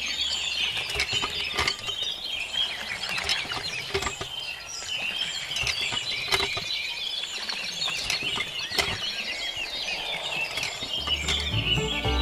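Many small birds chirping and twittering without pause, with scattered short clicks among them.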